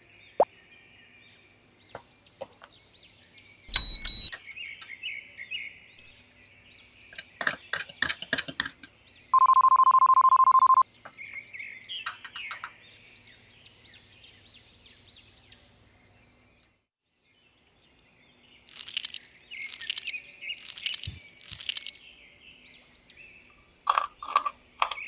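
Birds chirping, with one loud electronic beep lasting about a second and a half near the middle and a few short clicks.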